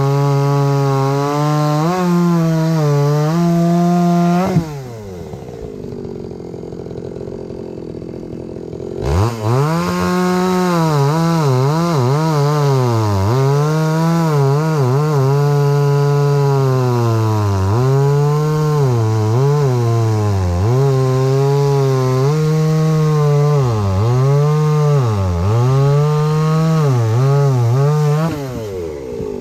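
Older two-stroke chainsaw without a primer bulb, running at high revs: it drops to a quieter idle about four seconds in, revs up again a few seconds later and then dips and recovers in pitch again and again, about once a second, before falling back to idle near the end.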